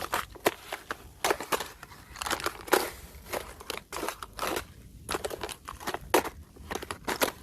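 Thin fresh ice crunching and cracking as it is broken, in quick irregular bursts, often several close together.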